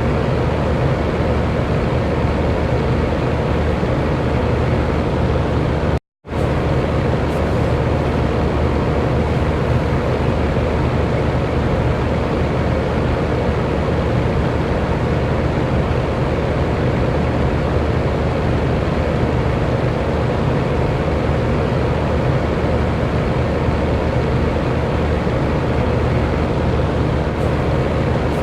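Electric fan running steadily: a constant rushing noise with a faint hum of steady tones. The sound cuts out completely for a fraction of a second about six seconds in, then resumes unchanged.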